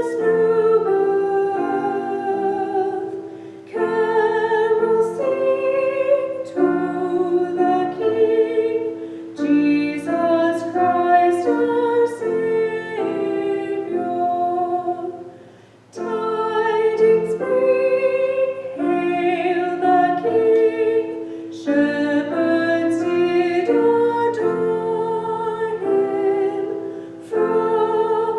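A solo singer with piano accompaniment performing a hymn, in long phrases separated by short breaks.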